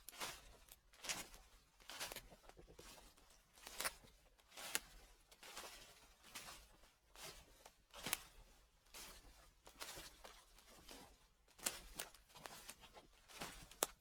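Footsteps crunching through dry fallen leaves, a slow, even step about once a second, each one a crackling rustle.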